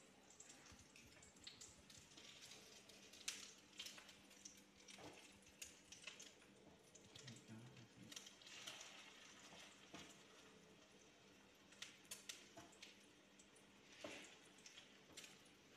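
Faint sizzling of eggs frying in a wok, with scattered crackles and small clicks throughout.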